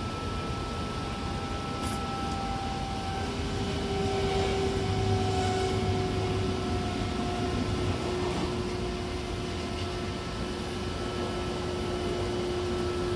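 Odakyu 70000 series GSE electric train running: steady wheel and rolling noise with the thin whine of its full-SiC VVVF inverter and traction motors, the tones falling slowly in pitch.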